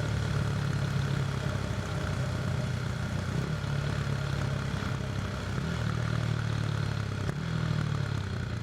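KTM RC 390's single-cylinder engine running at low, fairly steady revs through an SC Project slip-on exhaust, with a deep, mildly wavering note.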